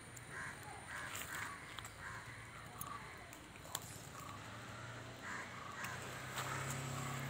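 Birds calling over and over with short harsh caws, with a few faint crackles from a small fire of dry coconut fronds. A low hum grows louder near the end.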